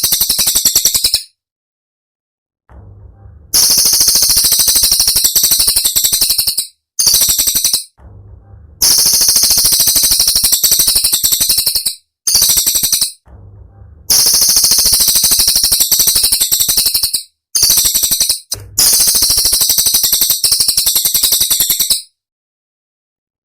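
Cililin singing sharp, high-pitched rapid-fire trills, the fast 'tembakan' phrases used to tutor songbirds. The trills come in bursts of about one to three seconds, eight in all, separated by short silences.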